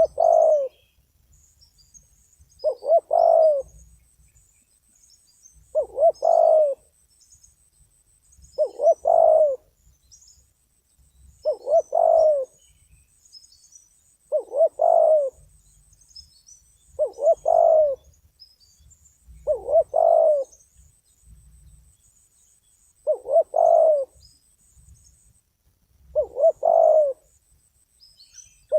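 Spotted dove cooing, repeating its phrase about every three seconds, each one a short note followed by a longer rolling coo; the caller is a trained decoy dove. Faint high chirping of small birds runs underneath.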